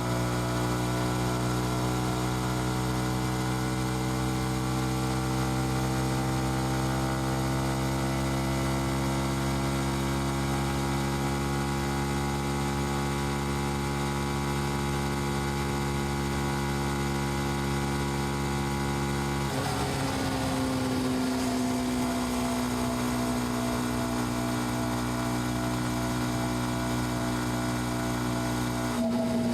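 Yamaha XSR155's 155 cc single-cylinder engine and exhaust running steadily while the bike is ridden, its note easing slowly lower. About two-thirds of the way through the note changes abruptly to a different pitch, and it shifts again near the end.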